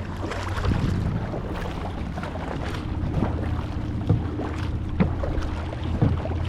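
Kayak paddling: paddle strokes splashing in the water, with wind buffeting the microphone as a steady low rumble. Several sharp knocks come about one a second in the second half.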